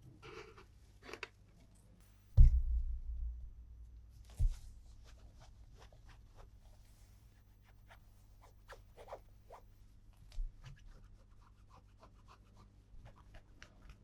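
Handling of plastic toys and packaging: scattered small taps, clicks and rubs, with a heavy low thump about two seconds in and a smaller one a couple of seconds later.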